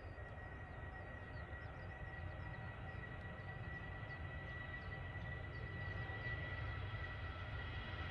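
Distant jet airliner engines: a low rumble under one steady high whine, growing slowly louder.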